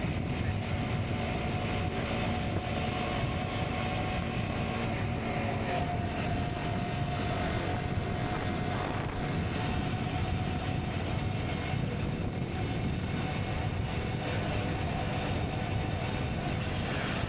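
KTM Duke 125's single-cylinder four-stroke engine running through an Akrapovic exhaust at a steady cruise, with no gear changes or sharp revs.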